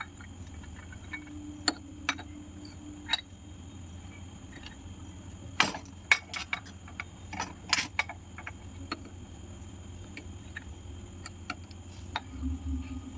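Light clinks and taps of kitchen utensils and dishes being handled, scattered irregularly and busiest in the middle, over a steady low hum.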